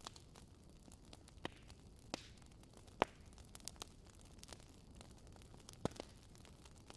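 Wood campfire crackling: scattered sharp pops and snaps, the loudest about three seconds in, over a low steady hiss.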